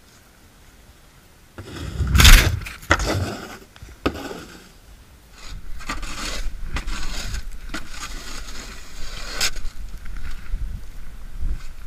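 Plastic snow shovel scraping and pushing snow along the ground: one loud scrape about two seconds in, a shorter one a little later, then continuous scraping from about halfway on.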